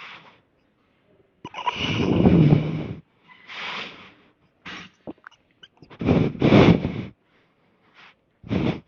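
A man breathing hard with effort, forceful exhalations about a second long every couple of seconds, with a few faint clicks between them.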